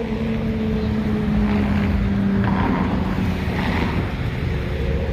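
Vehicle engine running with a low rumble; a steady engine hum fades out about three seconds in, leaving the rumble.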